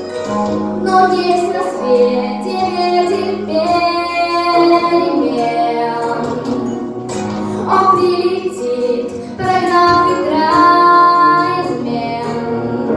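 A song: a child's or young female voice singing over a backing track with a held bass line and a beat.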